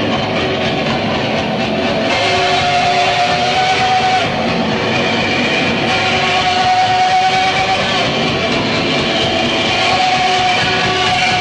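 Live rock band with loud distorted electric guitar, a dense wall of noise with held ringing notes that come and go every couple of seconds, heard through an audience cassette recording.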